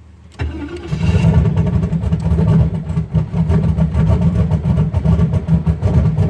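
Turbocharged LS-series V8 on a Microsquirt standalone ECU starting cold: it fires about half a second in, catches, and runs on with a wavering, uneven level. The owner judges the mixture a little too rich on this cold-start enrichment.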